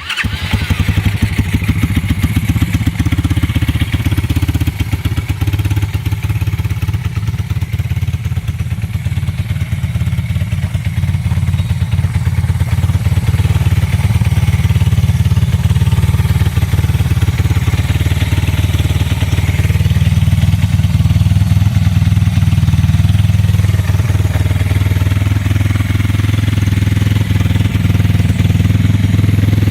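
Single-cylinder four-stroke Pitster Pro engine in an FXX FX1 dirt bike running at a steady idle, just after a cold start on the electric starter.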